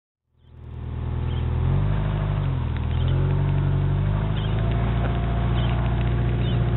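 Car engine running at driving speed: a low, steady drone that fades in just after the start, its note dipping and coming back up about two and a half seconds in.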